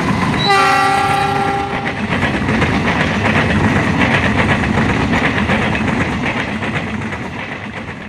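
CC 206 diesel locomotive sounding its horn in one short chord as it passes, then the train's coaches rumbling and clattering by on the rails. The noise slowly dies away near the end.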